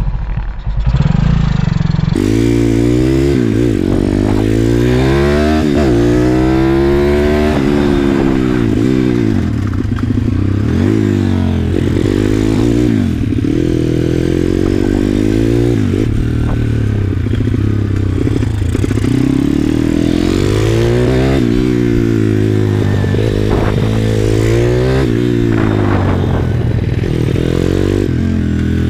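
Pit bike's single-cylinder engine ridden hard round a track, its pitch climbing under acceleration and dropping off again, over and over.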